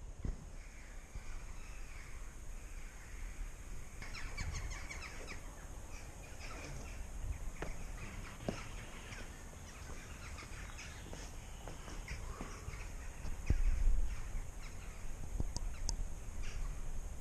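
Outdoor ambience of birds calling, many short scattered calls, over a low rumble on the microphone that swells about thirteen seconds in.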